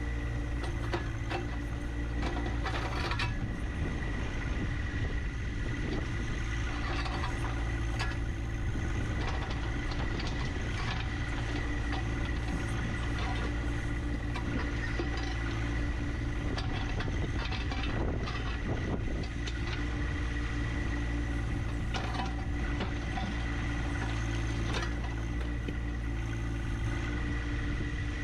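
John Deere 1025R compact tractor's diesel engine running steadily, with a steady high whine over it and scattered knocks and scrapes throughout, as of a backhoe working against rock.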